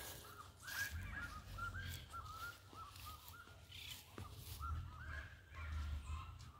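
Birds chirping: a scattered run of short, repeated calls, over a faint low rumble.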